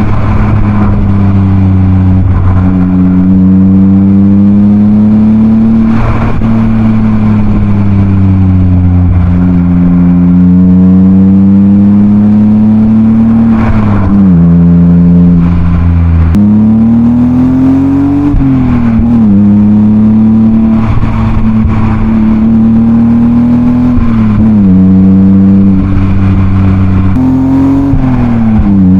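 BMW E36 328i's M52B28 straight-six engine, heard through a Schmiedmann rear silencer, under way on the road. Its pitch rises and falls with the throttle, with several sudden drops in pitch at gear changes.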